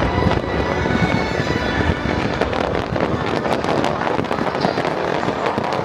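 Large aerial fireworks display: a continuous barrage of shell bursts with dense crackling throughout, and music playing underneath.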